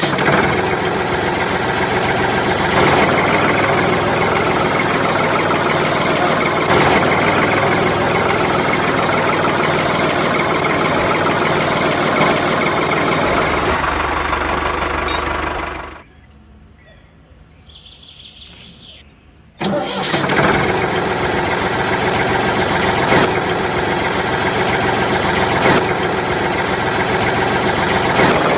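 A motor running steadily and loudly. It cuts out for about four seconds in the middle, with a faint click in the gap, then starts again suddenly.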